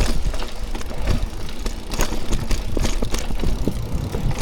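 Mountain bike rattling and knocking over a rough, rooty singletrack, many sharp knocks in quick succession over a steady low rumble.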